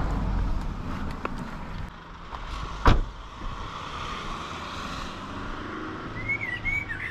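A car's steady low rumble with a single sharp knock about three seconds in, and birds chirping briefly near the end.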